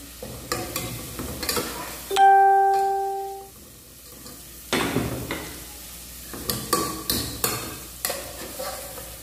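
Onion sizzling as it fries in an aluminium pot, while a wire skimmer knocks and scrapes against the pot, stirring in garlic. About two seconds in, a single clear ringing note sounds and fades over about a second; it is the loudest thing heard.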